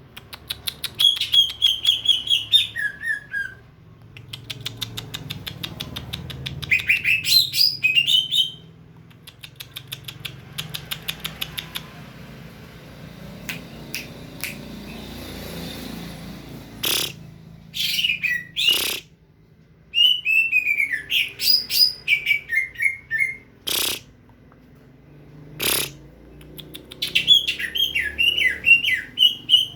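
A songbird chirping in rapid runs of short notes, several phrases falling in pitch at the end. It goes quieter for a few seconds in the middle, where a handful of sharp clicks or knocks sound.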